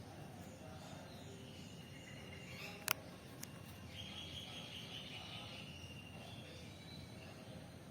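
Faint outdoor ambience with high chirping calls, one of them held for a few seconds from about four seconds in. A little under three seconds in there are two sharp clicks, half a second apart.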